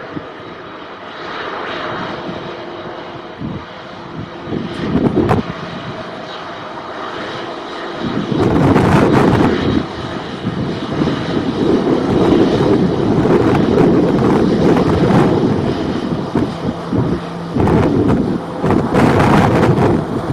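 Boeing 737-800 jet engines running at takeoff power, growing much louder about eight seconds in, with strong gusts of wind buffeting the microphone.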